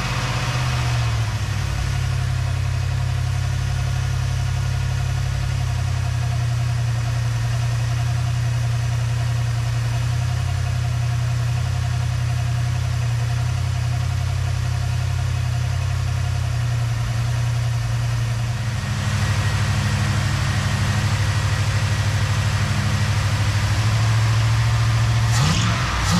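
1966 Plymouth Fury's engine running at a fast idle while its ignition timing is set; the idle is too high because the carburetor does not return to idle. About 19 seconds in, the engine note shifts and gets a little louder.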